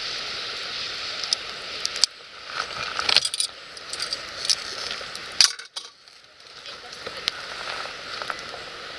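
Wood fire crackling in a fire pit: sharp pops and ticks over a steady hiss. The sound drops away suddenly about two seconds in and again around five and a half seconds.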